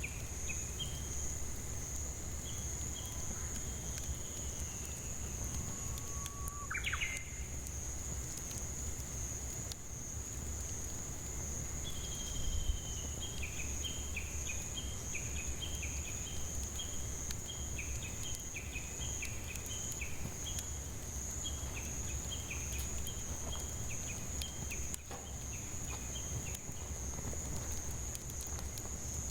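Cicadas buzzing as a steady high-pitched drone, while a bird calls in short repeated notes at the start and again through the middle, with one rising whistle about seven seconds in. A low, even rumble lies underneath.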